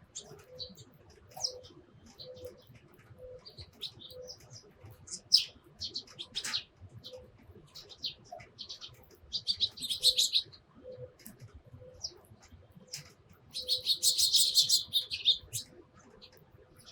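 Eurasian tree sparrows chirping in short, scattered calls, breaking into two louder bursts of rapid chattering, one about ten seconds in and a longer one near the end.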